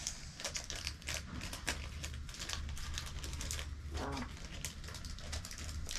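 Plastic packaging crinkling and rustling in irregular quick crackles as small items are handled and pushed back into it.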